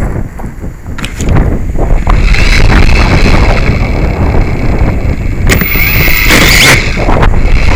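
Strong wind buffeting the microphone, over the steady high whine of a Syma X5C quadcopter's motors and propellers, which grows louder for about a second after the middle.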